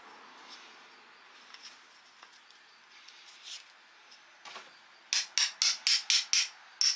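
A few faint clicks and rubs, then about five seconds in a hammer starts tapping in quick, even strokes, about four a second, each strike ringing briefly.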